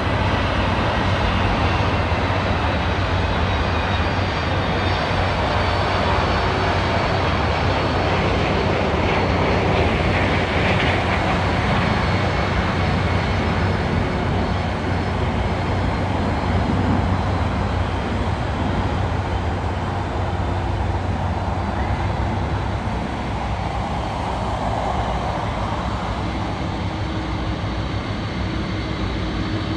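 Jet airliner engines on approach: a loud, steady rumble with faint high whining tones in it.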